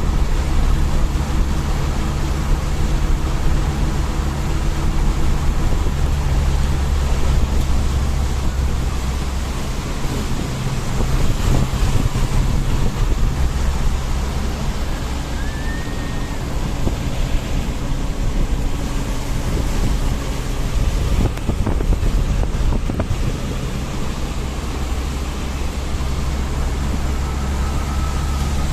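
A vehicle travelling along a road: a steady low engine hum under continuous road and wind noise.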